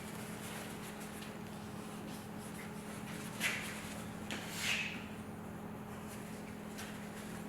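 Two short rubbing, rustling scuffs of hands wiping and handling the work, one about three and a half seconds in and a slightly longer one just before five seconds, over a steady low hum.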